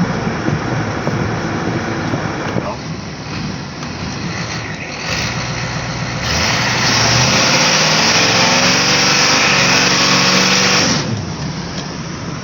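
A 1986 Ford F-250's 6.9 IDI diesel engine running as the truck is driven in four-low. A bit past halfway the revs climb with a loud rushing noise, the engine note rising steadily, then the throttle comes off and the noise drops away about a second before the end.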